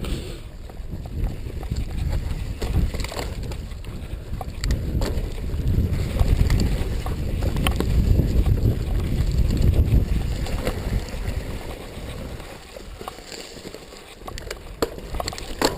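Wind rumbling on the microphone of a mountain bike being ridden over rough trail, with scattered rattles and clicks from the bike. The rumble swells to its loudest in the middle and eases near the end.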